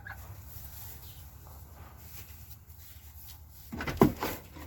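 A startled chicken gives a quick run of loud clucks near the end, over a low steady rumble.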